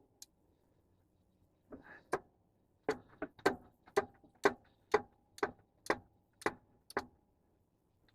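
A run of about ten sharp clicks or taps, evenly spaced at about two a second, with a faint ringing tone between them. It starts about three seconds in and stops about a second before the end.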